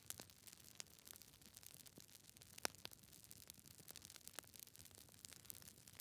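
Wood fire crackling in a fireplace: faint, irregular snaps of burning logs over a soft hiss, with a few sharper pops, the loudest about halfway through.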